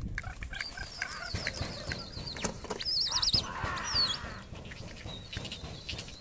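Birds calling outdoors: thin high whistles, then a fast wavering trill about three seconds in and a short falling whistle just after.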